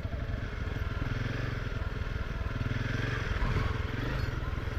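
Single-cylinder dual-sport motorcycle engine running steadily at low speed, a fast even thumping rumble.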